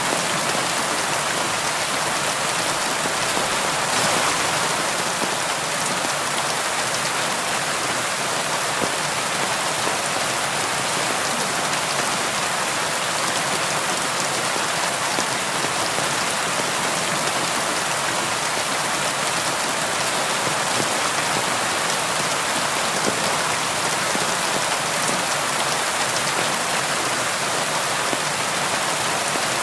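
Steady rain pattering on a window pane, an even hiss of drops with no pauses. There is a slightly louder spatter about four seconds in.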